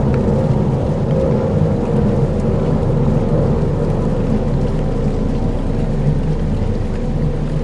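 Dark ambient soundscape: a steady, dense low rumbling drone with a few faint held tones and a light hiss above it.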